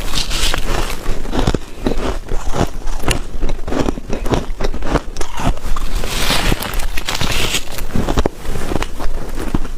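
Hard white ice cubes being bitten and chewed, crunching and cracking in a dense, rapid run of sharp crackles, with a brief lull a little past eight seconds.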